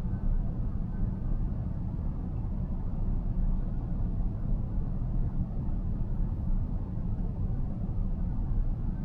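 Steady low road and tyre rumble inside the cabin of a car cruising on the road.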